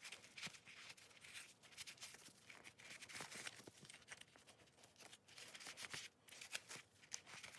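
Faint rustling and light scattered clicks of a rag wiping out a motorcycle's oil filter housing.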